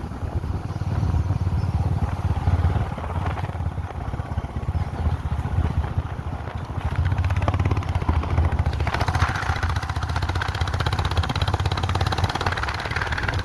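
A vehicle engine running steadily while driving on a rough mountain road. From about nine seconds in, a louder rattling road noise joins it.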